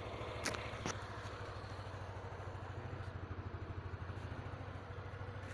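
Motorcycle with an aftermarket Akrapovic-style racing exhaust idling, a faint, steady, evenly pulsing low putter. Two small clicks about half a second and a second in.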